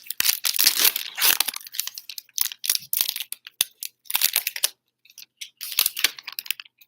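The wrapper of a trading-card pack being torn open and crinkled. It gives a dense crackle for about the first second and a half, then shorter bursts of crinkling.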